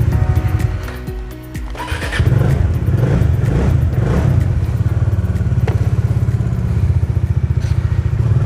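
Bajaj Dominar 400's single-cylinder engine running with a fast, even pulse, growing louder about two seconds in and then holding steady. Background music fades out in the first couple of seconds.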